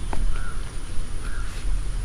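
Two short bird calls about a second apart over a steady low rumble.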